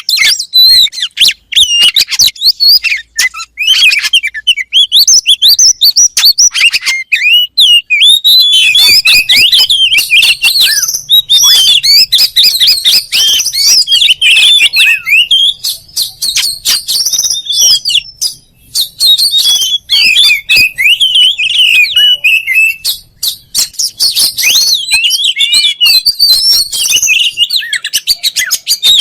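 Oriental magpie-robin (kacer) singing a loud, continuous, varied song of quick gliding whistles mixed with rapid sharp clicks, with only brief pauses.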